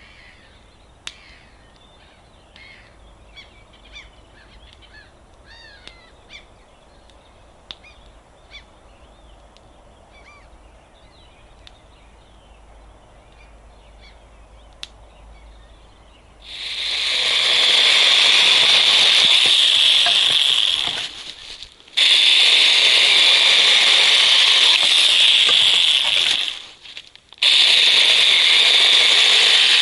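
Birds chirping over a quiet background, with a few sharp clicks; about halfway through, a loud, dense crackling and hissing of a campfire close by takes over, breaking off abruptly twice.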